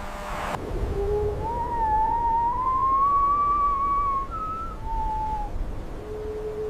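A single eerie whistling tone that wavers and glides slowly up and down, breaking off and returning several times, over a steady low rumble.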